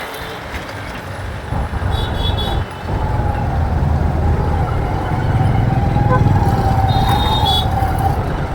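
Steady rumble of engine and road noise from a moving motorcycle in city traffic. Two short high beeps come about two seconds in and again near the end, and a long wavering tone runs through the second half.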